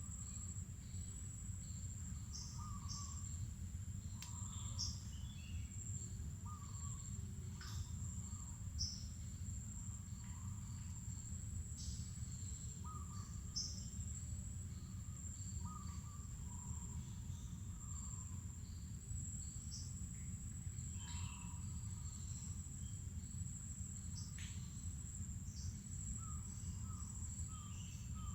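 Mangrove forest soundscape: a steady, high-pitched insect drone, with short bird chirps and lower repeated calls scattered throughout, over a steady low rumble.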